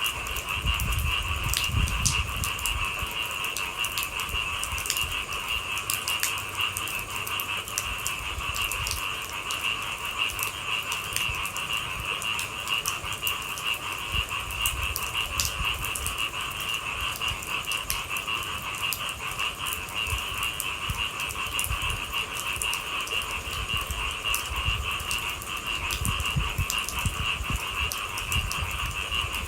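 A steady, unbroken chorus of night-calling animals, with rain falling and scattered drops ticking sharply over an uneven low rumble.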